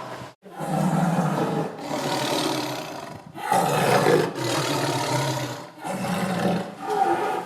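Tiger roaring: a run of long, growling roars with brief breaks between them.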